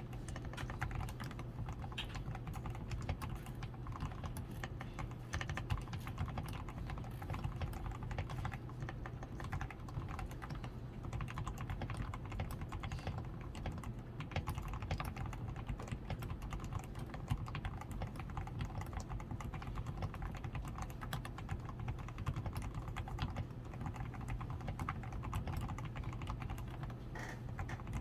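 Continuous fast typing on a DAREU A87 Pro mechanical keyboard: dense, uneven keystroke clicks several per second without pause. The board is fully lubed with Krytox 105, has a tape-modded PCB and foam-padded switches, and wears XDA keycaps.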